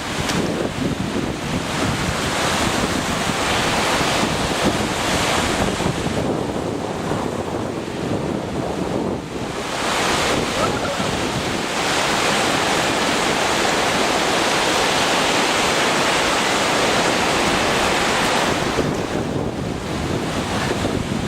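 Lake waves washing in with wind gusting over the microphone, a steady rushing hiss that swells and eases, dipping briefly about nine seconds in and running loudest through the middle stretch.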